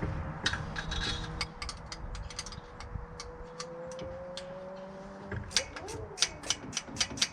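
Scattered sharp metal clicks of hand tools. Then, from about halfway through, a ratchet wrench clicking quickly and evenly, about four clicks a second.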